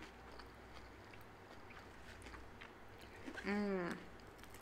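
Soft, faint chewing of a mouthful of jalapeño loaded hash browns with the mouth closed: small wet mouth clicks. About three and a half seconds in comes a short closed-mouth 'mm' hum whose pitch rises and falls.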